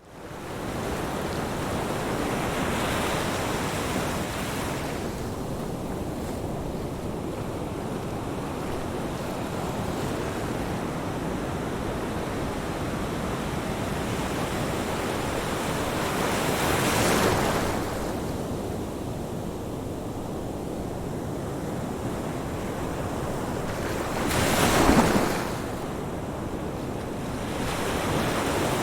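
Ocean waves breaking on the shore: a steady wash of surf with waves cresting and crashing about 3, 17 and 25 seconds in, the last the loudest.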